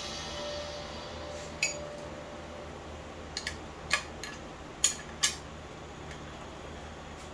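Metal tools and parts clinking against each other in a few sharp, separate knocks during engine work.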